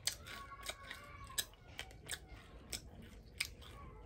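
A person chewing a mouthful close to the microphone, with sharp smacking clicks about every half second.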